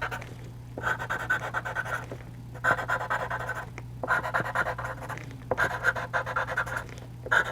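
Charcoal pencil scratching across textured charcoal paper in a series of about five strokes, each roughly a second long with short pauses between, as small marks are drawn in.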